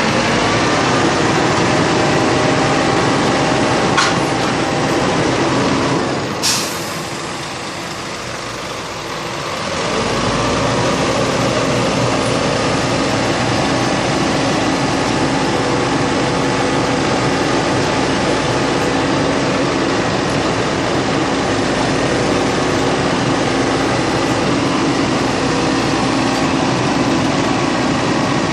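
Heavy Scania truck engine running steadily under a side loader, with a sharp hiss of air about six and a half seconds in. It then goes quieter for a few seconds before picking back up to a steady drone.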